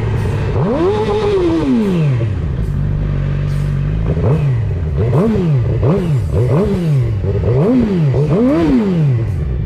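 Sport-bike inline-four engine, a Suzuki GSX-R600, being revved. Its pitch rises and falls once in a long sweep, holds steady for a moment, then jumps up and down in a run of quick throttle blips.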